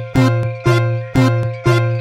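Japanese railroad-crossing warning bell ringing kan-kan about twice a second, four strikes, each ringing on briefly, over a steady low tone in the music.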